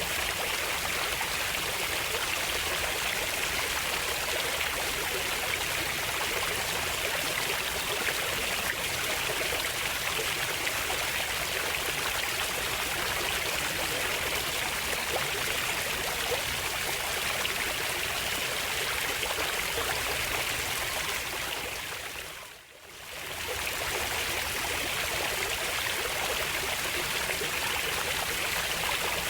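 Flowing water of a stream rushing and trickling steadily. About three quarters of the way through it fades down sharply for a moment and comes straight back.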